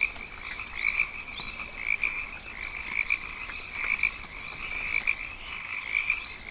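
Rainforest ambience of calling animals: a steady high-pitched chorus that swells to a louder call about once a second, with short rising chirps over it.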